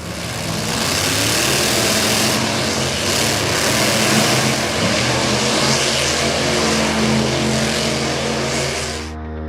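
Dubbed engine sound effect of a vehicle running hard and revving, with low tones that rise and fall, over background music. It starts abruptly and cuts off sharply about nine seconds in.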